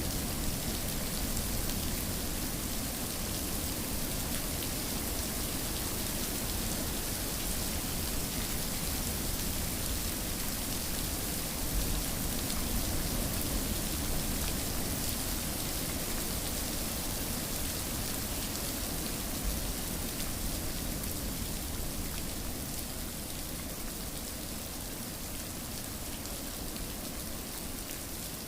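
Steady rain falling, an even hiss of rain on a surface with no speech or music.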